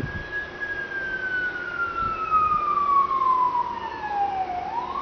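Emergency vehicle siren on a slow wail: its pitch falls steadily for about four and a half seconds, then sweeps back up near the end.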